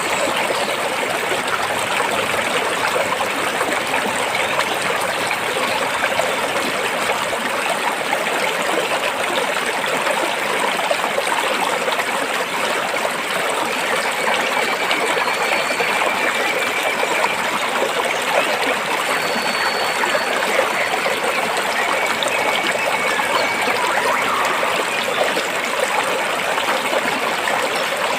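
Stream of water flowing steadily over and between rocks, an even rushing and trickling with no breaks.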